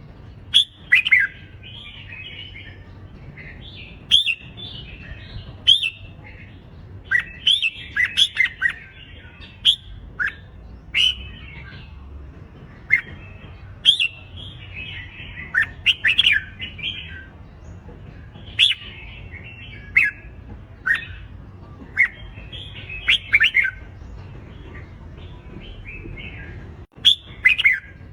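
Red-whiskered bulbuls singing in competition: short, loud, clear whistled phrases and sharp calls coming one after another throughout, thicker in a few quick flurries.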